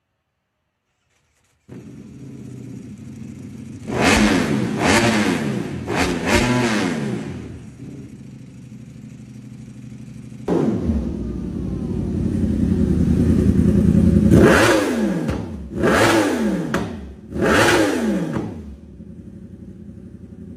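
Inline-four sport motorcycle engine idling and being revved in quick throttle blips: it starts about two seconds in, blips three times, then builds into a longer, louder rev from about ten seconds in, and ends with three more sharp blips. Each blip jumps up in pitch and falls back to idle.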